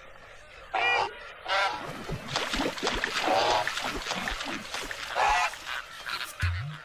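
Goose honking: about four separate nasal honks, with short clicks and knocks in between.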